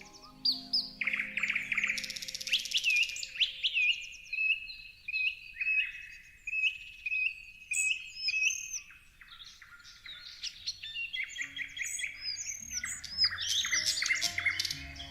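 Songbirds chirping and singing: a run of short repeated chirps at a steady pace through the first half, then several birds chirping at once, denser, near the end.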